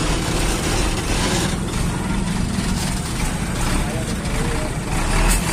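Concrete mixer truck's diesel engine running steadily, with people talking in the background.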